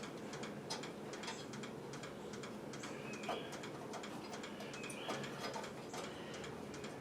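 Faint, irregular clicks and ticks of hand tools and small parts being handled.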